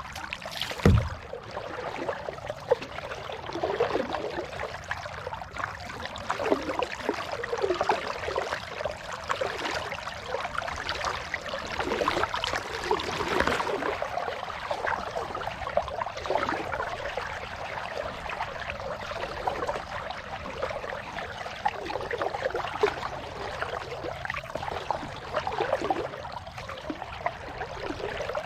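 Water splashing and trickling around a kayak, with swells every second or two like paddle strokes dipping and dripping. A single hard knock about a second in.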